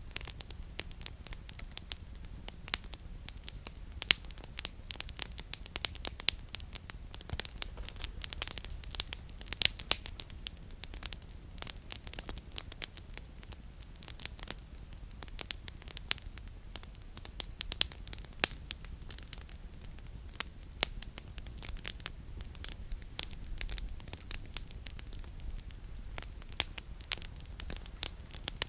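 Campfire of burning firewood crackling, with many irregular small pops and snaps and a few louder ones, over a low steady rumble.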